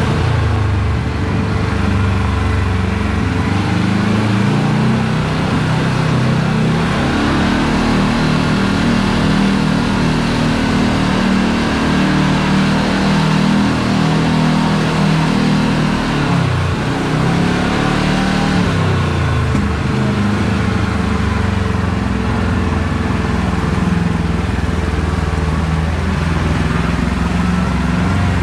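Side-by-side UTV engine running while driving, with the engine note shifting as the throttle changes. About two-thirds of the way through, the pitch dips and then climbs again.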